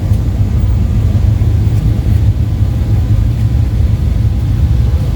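A loud, steady low rumble with no clear pitch.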